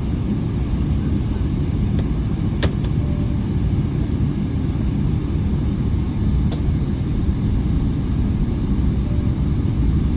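Airliner cabin noise: a steady low rumble, with a few faint clicks about two and a half seconds in and again about six and a half seconds in.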